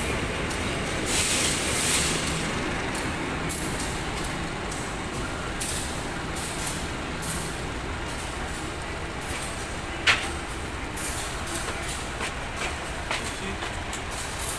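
KA Dhoho local economy passenger train heard on board: a steady rumble with a low hum, a brief hiss about a second in, and one sharp clack about ten seconds in.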